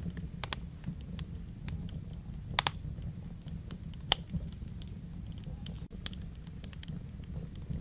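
Wood fire burning in a fireplace, crackling with irregular sharp pops and snaps over a low steady rumble of the flames; two louder pops stand out about two and a half and four seconds in.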